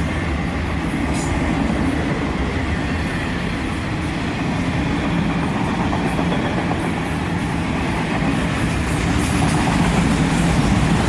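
A CSX freight train's cars rolling past close by: a steady rumble of steel wheels on the rails, with light clicks over the rail joints.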